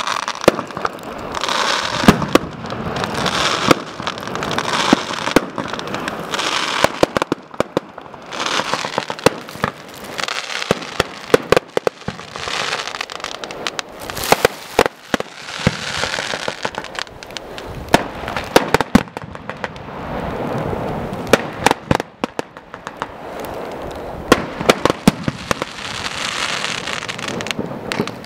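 Aerial fireworks display: a rapid, uneven string of sharp bangs from bursting shells, with swelling stretches of crackling hiss between them.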